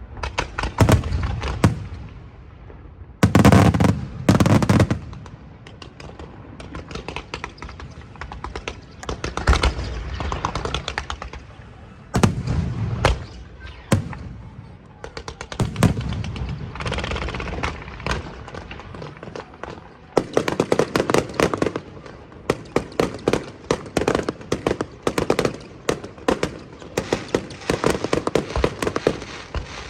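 Aerial fireworks going off without pause: heavy booms of shells bursting, mixed with long runs of rapid crackling reports.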